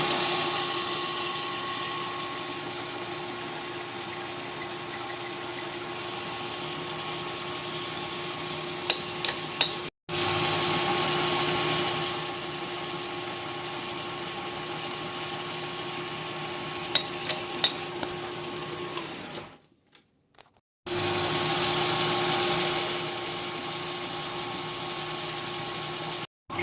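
Clausing 4800 metal lathe running with a steady hum while a hole is drilled into an aluminium spacer, with a few sharp clicks partway through. The sound drops out briefly about ten seconds in and again for about a second near twenty seconds.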